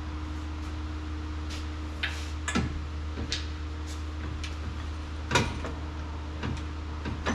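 Scattered metallic clicks and knocks as stainless exhaust tubing is handled and fitted into place, the loudest knock about five and a half seconds in, over a steady low hum.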